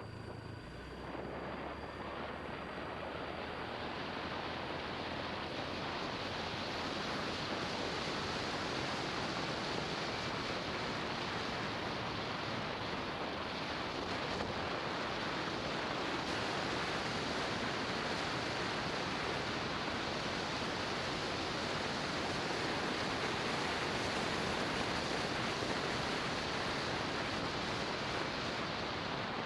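Steady rush of wind buffeting the microphone of a camera mounted on a moving motorbike, swelling over the first few seconds as the bike picks up speed and then holding.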